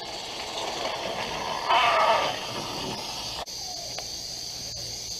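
Coal-fired Roundhouse Lady Anne 16 mm-scale live steam locomotive running, hissing steam, with a louder burst about two seconds in. A little past halfway the sound cuts off sharply and gives way to a steadier, quieter hiss with a faint high tone.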